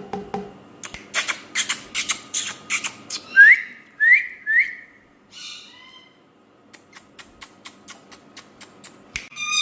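Pet parrot giving three short rising whistles in quick succession a few seconds in, with a fainter call after them. Sharp clicks come before the whistles, and a regular run of faint ticks, about four a second, follows in the second half.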